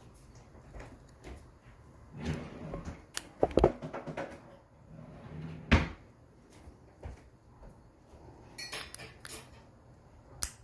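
Scattered small clicks, taps and rustles of a wristwatch and its snap-off case back being handled during a battery change, with a few sharper clicks.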